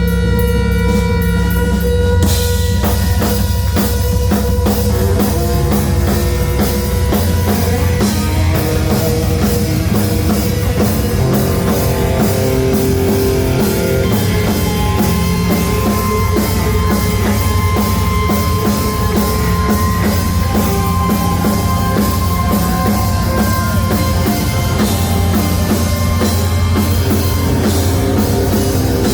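Live rock band playing with drum kit, electric guitars and bass. Held guitar and bass notes open, and the full drum kit comes in about two seconds in, driving a steady rock beat.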